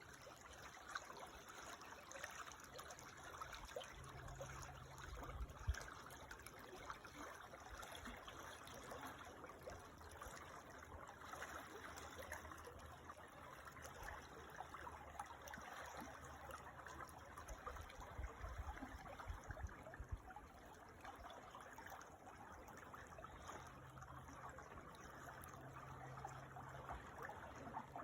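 Faint, steady trickling and babbling of a small creek.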